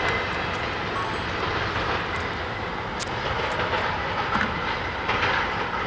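A Union Pacific freight train of empty flatcars rolling past: a steady rumble of wheels on rails, with short high squeaks and clicks scattered through it.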